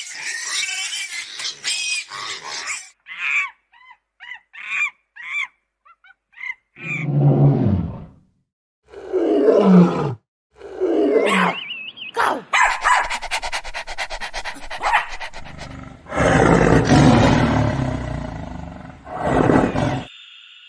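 A string of separate animal calls: first a run of short high chirps about twice a second, then several deep roars and growls that fall in pitch, a fast rattling growl, and a long loud roar near the end.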